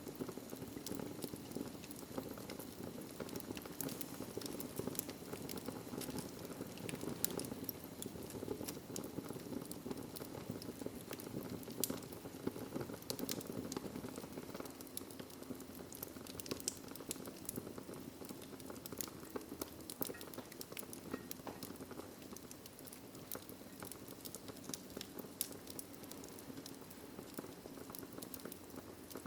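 Wood fire crackling in a fireplace: a steady low rush of burning with frequent sharp pops and snaps scattered throughout.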